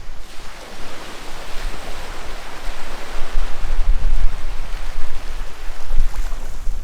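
Sea waves breaking and washing up the shore, a broad hiss that swells about half a second in and eases off near the end, with wind rumbling low on the microphone.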